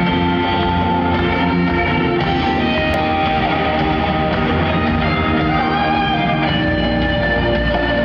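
Live band music played loud at a concert, with guitar prominent and sustained notes that change every second or two.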